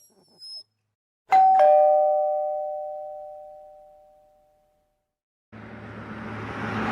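Two-tone chime doorbell: a high ding followed by a lower dong, both ringing out and fading over about three seconds. Near the end a vehicle's engine noise fades in and grows louder.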